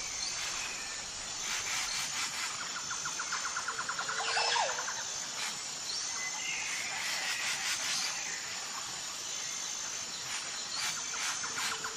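Several wild birds calling: repeated fast trills, short whistled notes and a falling call, over a thin, steady, high-pitched tone.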